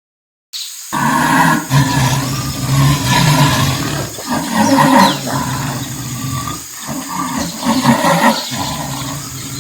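Jaguar roaring, starting about half a second in and going on in uneven swells.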